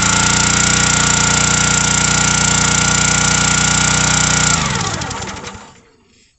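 Kohler 6.5 hp 196 cc single-cylinder engine on a gas log splitter, running fast and steady on choke. It shuts off about four and a half seconds in and winds down to a stop; it died as the fuel was turned on.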